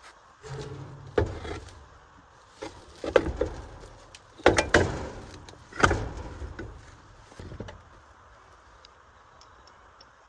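Sharp knocks and clanks of hands-on work on an old car, about six of them, some ringing briefly. The loudest come near the middle, then they stop about eight seconds in.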